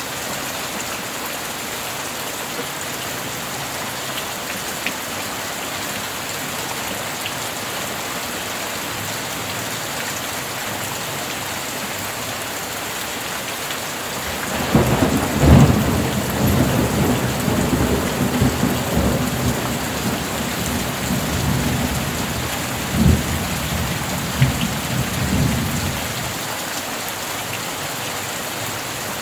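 Steady heavy rain, with a long rumble of thunder from about halfway through that lasts about ten seconds, with a few louder cracks and peaks within it, before fading back to the rain alone.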